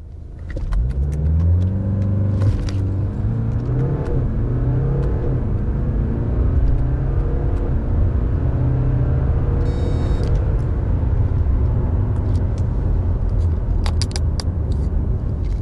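A BMW 520d's 2.0-litre four-cylinder turbo diesel pulls hard at full throttle from a standstill, its pitch climbing and then dropping back as the 8-speed automatic shifts up through the gears.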